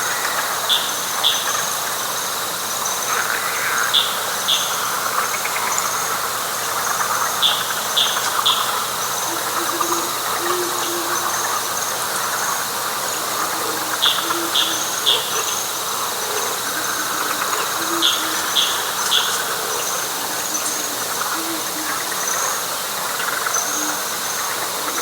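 Night chorus of frogs and insects in wet flatwoods: a steady high insect trill over a dense frog chorus. Groups of two or three short high-pitched calls repeat every three to four seconds, with short low notes scattered in between.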